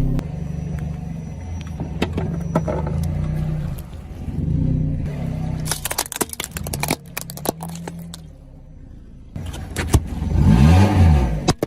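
A vehicle engine running low with many sharp cracks and clicks, and one short rev that rises and falls near the end.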